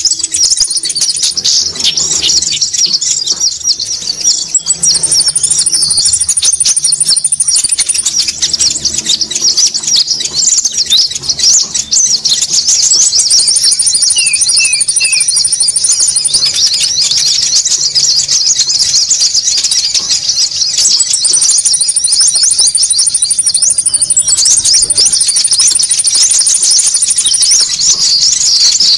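Bird-lure recording of small songbirds calling noisily: a dense, unbroken mass of rapid high chirps, with a higher, even trill that comes in several times for a few seconds each.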